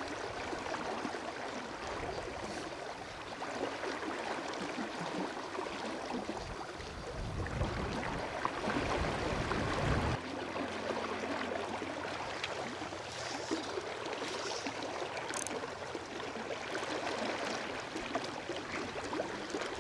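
River water running steadily, with low gusts of wind buffeting the microphone during the first half that stop suddenly about halfway through.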